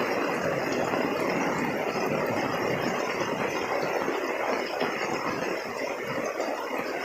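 Heavy rain falling steadily, an even rushing hiss without any distinct drops or knocks.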